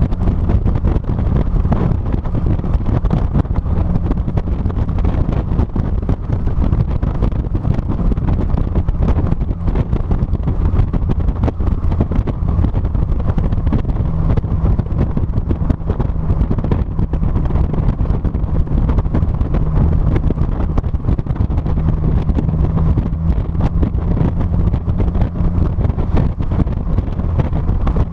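Heavy wind buffeting on the microphone of a trunk-mounted GoPro on a moving 2006 Mazda NC Miata, with the car's engine and exhaust droning steadily underneath.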